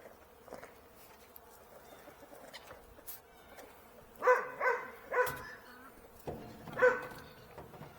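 An animal giving short, high-pitched calls: three in quick succession about four seconds in, then a single one near the end.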